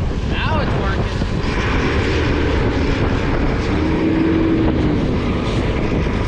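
Strong gusting wind buffeting the microphone in a loud, continuous rumble, with a brief shout under a second in.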